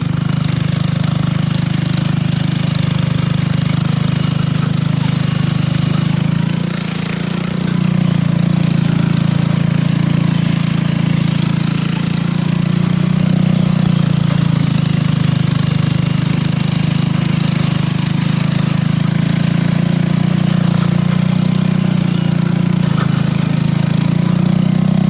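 1967 Bolens 750 garden tractor's engine running steadily under way in third gear, dipping briefly about seven seconds in and then picking back up. It runs a little rough, which the owner puts down to a poor carburetor.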